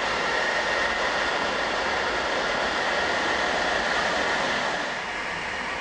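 Frecciabianca passenger train running, heard from inside the carriage: a steady rumble and rushing noise with a thin steady whine, easing slightly near the end.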